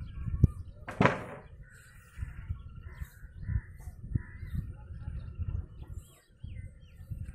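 Birds calling: one loud, harsh caw-like call about a second in, and a few short, falling chirps near the end, over a low rumble.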